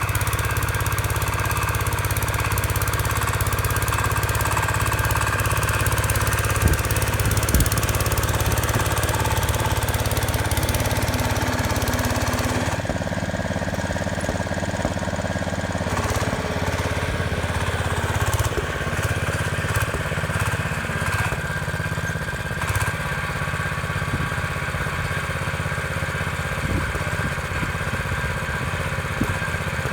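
Small garden tractor's engine running steadily, with a slight change in its tone about 13 seconds in.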